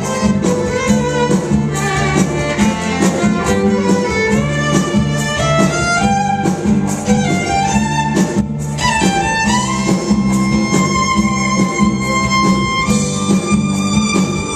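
Celtic fusion music: a fiddle plays quick runs over a steady rhythmic backing. About nine seconds in it slides up into one long held note.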